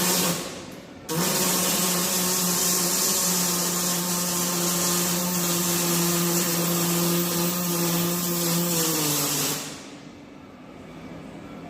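Electric angle grinder: a brief blip of the motor, then about eight seconds of steady running with a hissy grind on metal, the motor tone dropping as it spins down near the end.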